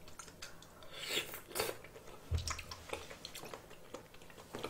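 A person chewing a mouthful of soft peeled shrimp close to the microphone: irregular wet mouth clicks and lip smacks, with a dull low thump about two and a half seconds in.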